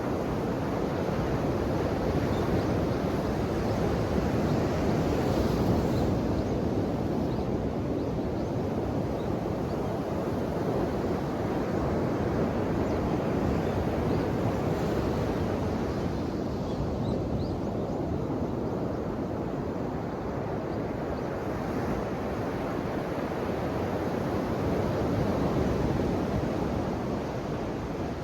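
Ocean waves in a continuous rush of surf, swelling and easing about every ten seconds.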